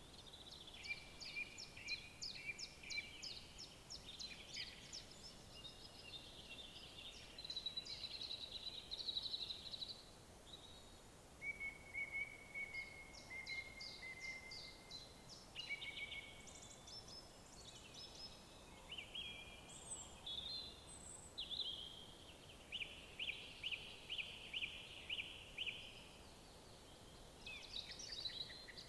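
Wild songbirds singing: overlapping phrases of rapid repeated notes and trills, with a faint steady outdoor background beneath.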